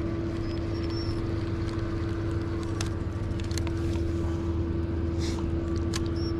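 A fishing boat's motor running steadily, a constant even hum with a few faint clicks over it.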